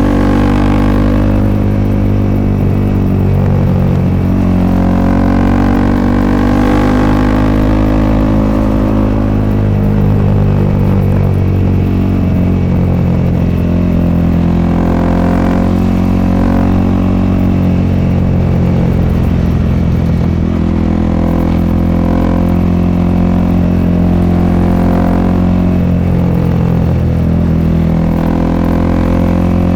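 Exhaust of a 2021 Honda CRF300L's single-cylinder four-stroke engine through an aftermarket FMF Q4 silencer, heard on board while riding. The revs rise and fall several times as the bike accelerates and eases off.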